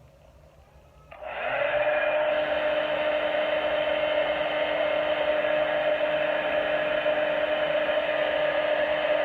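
A small electric motor switches on about a second in and runs steadily, a constant whirring hum with a steady tone.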